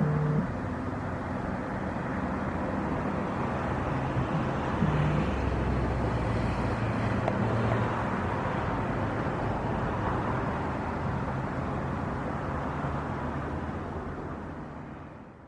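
Steady engine noise, fading away near the end.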